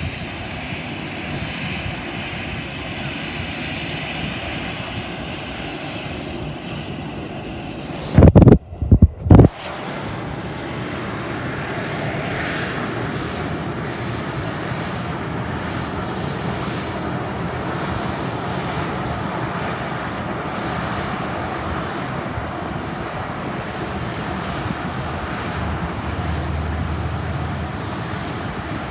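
Aircraft engines close by at an airport runway: a steady whine for the first several seconds, then a broad, steady engine roar for the rest. About eight seconds in comes a short cluster of very loud bursts that overload the recording.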